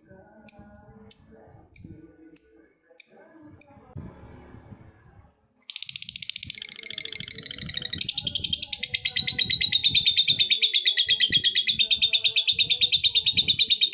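Lovebird calling: single sharp chirps about every 0.6 seconds for the first few seconds, then, after a short pause, a long unbroken rapid chatter starting about five and a half seconds in. This is the long 'ngekek' chattering call.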